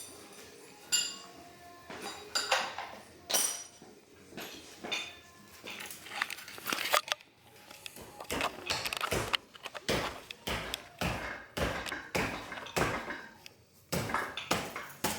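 Metal tools clinking and knocking against the parts of a Toyota 22R engine as its stuck camshaft bolt is worked loose. There are sharp, irregular clanks, a few of them ringing, and they grow heavier and more frequent about halfway through.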